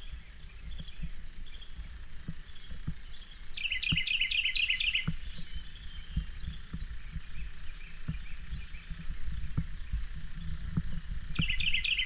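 A songbird singing a short, fast trill of high chirps, twice: about four seconds in and again near the end. Under it, a steady low rumble with scattered low thumps.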